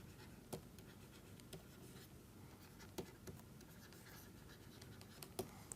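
Faint writing sounds: a pen scratching lightly across the writing surface, with a few soft taps as strokes begin or end.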